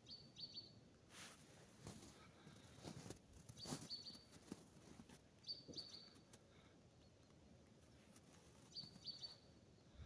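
Faint, short high chirps from a small songbird, each a quick cluster of two or three notes, heard four times, with a few soft crackles in between.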